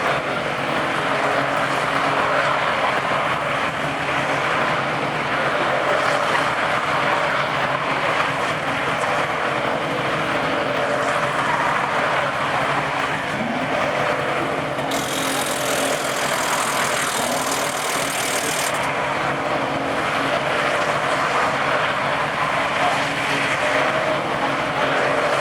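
Diesel dually pickup truck doing a burnout: the engine held at high revs with the rear tires spinning, a steady loud roar with a stretch of extra hiss in the middle.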